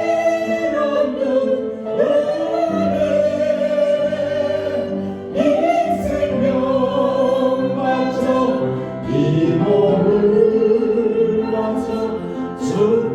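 Congregation singing a slow Korean praise song in long held notes over a steady accompaniment.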